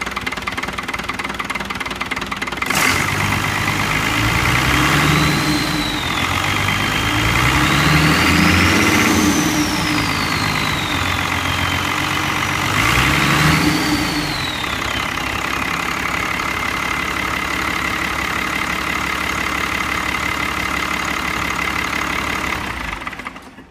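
Iveco 8060.45S six-cylinder turbo diesel engine running. It is revved up three times, the third rev shortest, with a whine rising and falling along with it. It then idles steadily and stops near the end.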